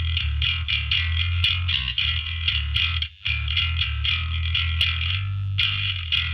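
Electric bass guitar played through a Darkglass Anagram with an Ampeg amp model pushed by B3K overdrive: a quick run of repeated distorted notes with deep lows and gritty, snarling upper mids. The playing breaks off briefly about three seconds in.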